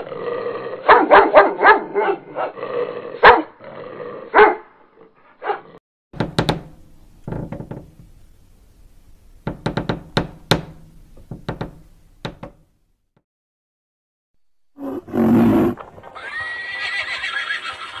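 A dachshund puppy yapping and growling in quick repeated calls for the first few seconds, then scattered short clicks and knocks. After a brief silence comes a loud burst, and a horse starts whinnying near the end.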